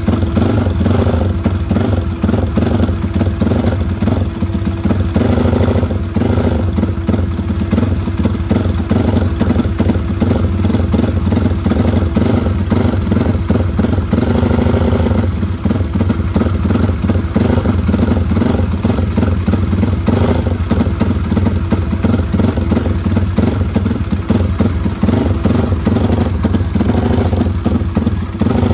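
Yamaha Vixion race-built single-cylinder four-stroke motorcycle engine running steadily at idle, with a couple of brief swells in the engine note.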